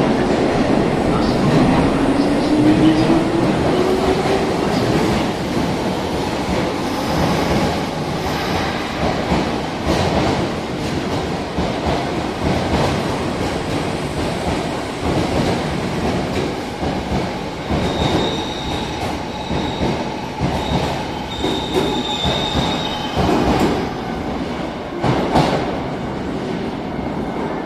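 A Hankyu 7000-series and 8000-series electric commuter train pulling out of the station. A motor whine rises in pitch over the first few seconds as it gathers speed, then the wheels clatter over the rail joints. A thin high wheel squeal comes and goes in the middle of the passage.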